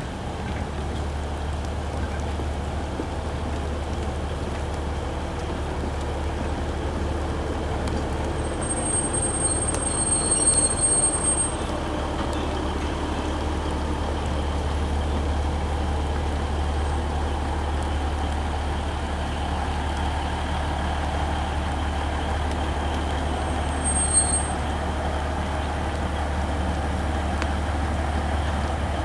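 A vehicle running with a steady low rumble, broken by a thin high squeal lasting about three seconds starting about nine seconds in, and a short second squeal near the end.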